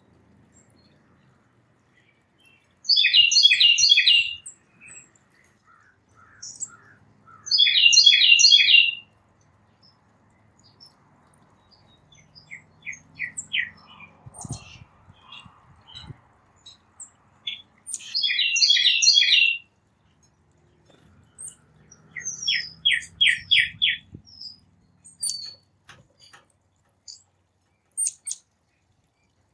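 Songbirds singing and calling at a backyard feeder: three loud song phrases of rapid repeated notes, each about a second and a half long, with softer runs of short, evenly spaced whistled notes and scattered high chips in between.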